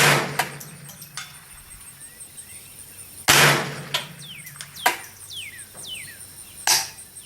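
Three shots from a Smith & Wesson M&P 15-22 semi-automatic .22 LR rifle, about three and a half seconds apart, with fainter sharp clicks between them.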